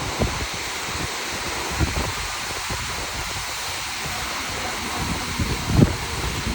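Steady rain falling, an even hiss with no change in level, with a few short low thumps about two, four and six seconds in.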